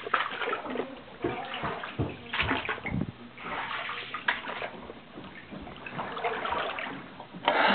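Flood water about 18 inches deep in a basement sloshing and splashing in irregular bursts, with a few short knocks.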